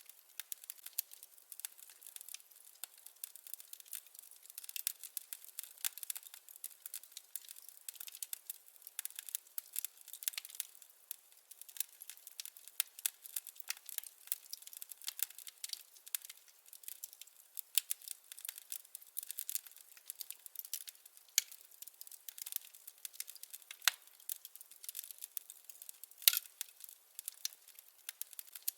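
Firewood burning in a fireplace, crackling: a dense, steady run of small pops and snaps, with two louder pops near the end.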